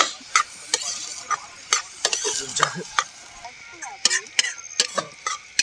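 Onions frying in hot oil in a kadhai, sizzling steadily, while a ladle stirs them and clinks against the pan two or three times a second.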